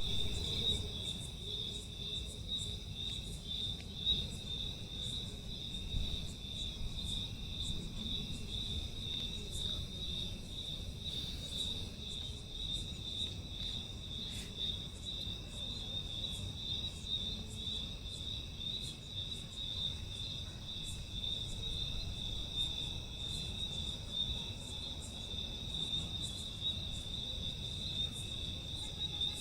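Continuous high trill of an insect, cricket-like, pulsing rapidly without a break, with short high chirps scattered over it.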